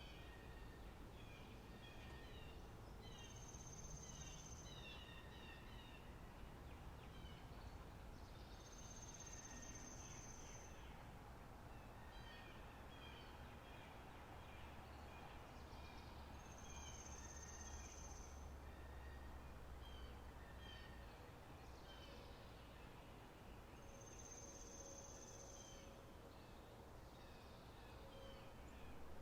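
Faint spring-meadow ambience: songbirds chirping, with a high, steady trill that comes back about every seven seconds and lasts a second or two each time.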